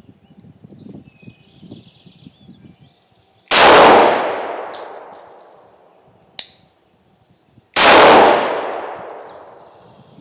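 Two 9 mm pistol shots from a Glock 19X, about four seconds apart, each ringing out in a long fading echo, with a few short sharp clicks between them.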